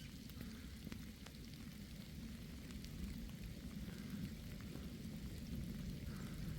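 Steady light rain falling, with scattered faint drop ticks over a low steady rumble.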